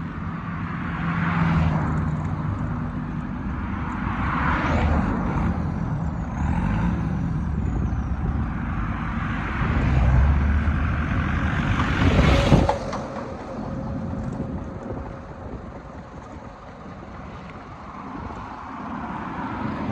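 Road traffic: vehicles and trucks passing with engine rumble and tyre noise that swells and fades several times, and a short sharp burst about twelve seconds in.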